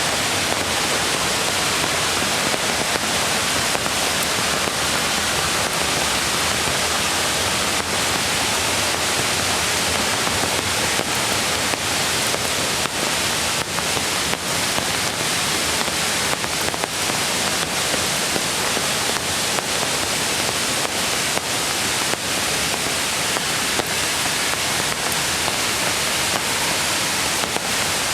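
Steady rush of a mountain creek flowing over stones, an even hiss with no let-up, with scattered faint taps throughout.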